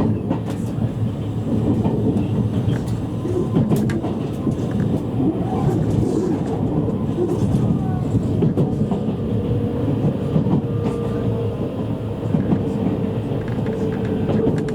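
Interior of a JR East E653 series electric train's motor car running along the line: steady rumble of wheels on rail with a few sharp clacks. A steady tone, typical of the traction motors, comes in about ten seconds in.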